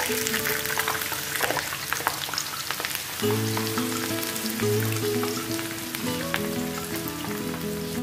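Vegetable fritter (okoy) batter sizzling and crackling in hot frying oil in a pan. The sizzling is loudest in the first few seconds as fresh batter goes in, with background music growing louder about three seconds in.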